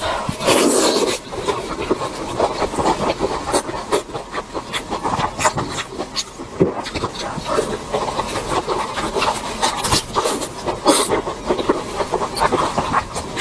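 A person eating fast into a close microphone, with dense wet chewing and smacking sounds and a louder burst about half a second in.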